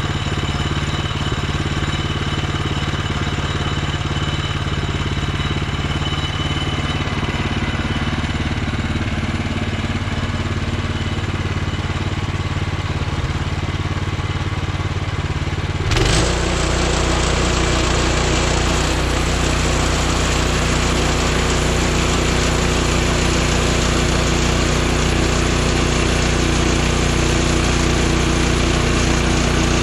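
Woodland Mills HM126 portable bandsaw sawmill with its gas engine running steadily. About halfway through, the sound changes abruptly and the mill then runs louder and harder, with more hiss over a deeper hum.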